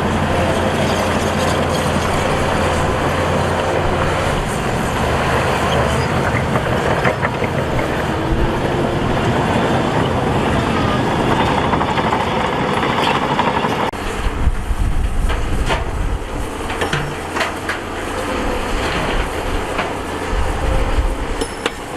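Heavy diesel earthmoving machinery working, engine running steadily under load. About two-thirds of the way through the sound changes abruptly to a deeper, rougher run with scattered knocks and clanks.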